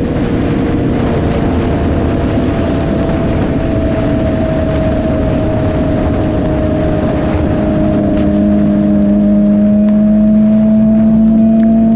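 Suzuki GSX-R sport bike's inline-four engine running at a steady cruise under a rush of wind noise. The engine note climbs a little and gets louder about eight seconds in.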